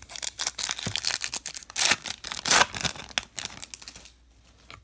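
Foil trading-card pack being torn open and its wrapper crinkled as the cards are handled: a dense run of crackling, tearing rustles that stops about four seconds in.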